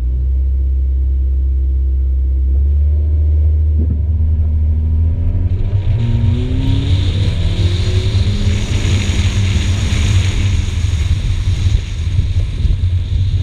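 A 2014 Mazda 2's 1.5-litre four-cylinder engine is revved hard under a heavy low rumble as the car leaves the rallycross start line. From about four seconds in the engine note climbs in pitch as it accelerates, and a steady hiss of tyres on dirt builds beneath it.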